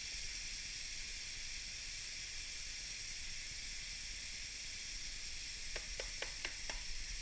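Duck nuggets coated in flour and cornmeal frying in hot oil in a frying pan, a steady high sizzle. Five quick light taps come near the end.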